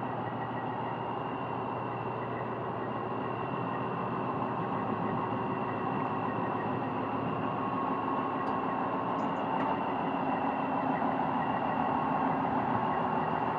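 Semi-truck diesel engine idling steadily, a low hum with a steady high whine over it.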